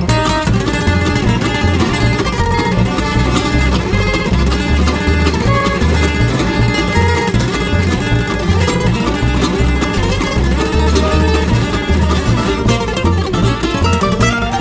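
Bluegrass band playing an instrumental break without singing: mandolin, guitar and fiddle over a steady low beat.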